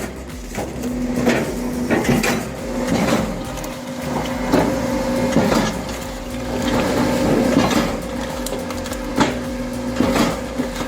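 Hydraulic firewood processor with an X-shaped splitting blade running with a steady hum, with repeated sharp knocks and clatter about once a second as logs are split.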